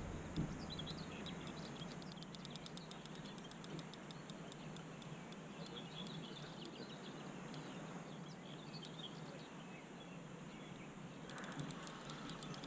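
Quiet lakeside ambience with birds chirping. A rapid run of faint, high-pitched ticks comes in the first two seconds and again near the end.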